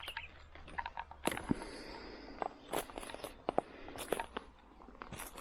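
Footsteps of a person walking, a dozen or so irregular sharp steps and crackles.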